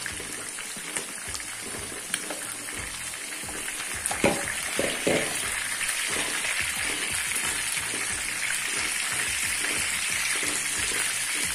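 Chicken pieces shallow-frying in hot oil in a pan, a steady sizzle. A few knocks of a steel spoon come about four to five seconds in, as the fried pieces are scooped out.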